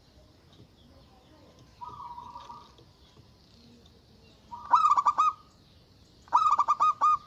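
Zebra dove (perkutut) cooing. A faint call comes about two seconds in, then two loud bursts of rapid staccato coos, each under a second long: one about halfway through and one near the end.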